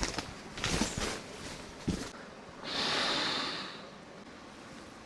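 A person blowing hard by mouth, inflating something such as a camping pad or pillow: rustling and a few clicks, then one long forceful breath about halfway through.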